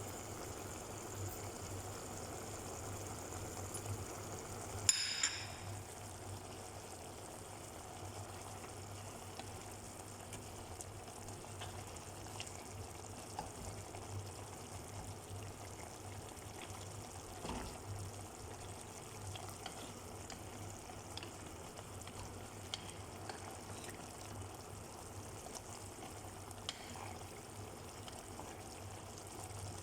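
Chicken adobo simmering in the pan, a faint steady bubbling and sizzling. A short clatter about five seconds in, with a few small ticks later.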